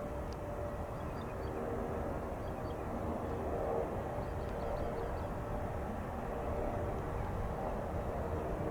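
Steady rumble of jet airliner engines with faint whining tones, no sudden changes.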